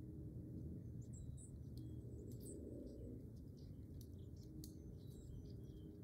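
Scattered short, high bird chirps over a faint, steady low rumble.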